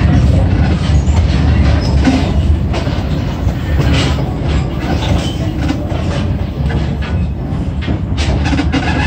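Passenger train rolling along the track, heard from aboard: a steady low rumble of the cars with irregular clicking and clatter of the wheels on the rails.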